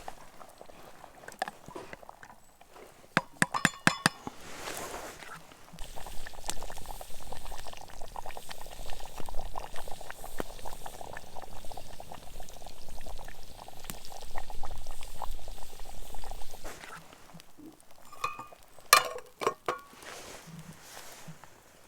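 Liquid pouring steadily for about ten seconds, with ringing clinks of metal cookware before and after.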